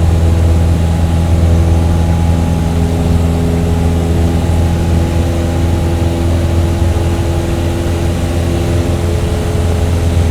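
A heavy engine idling steadily at a constant low pitch, with no revving.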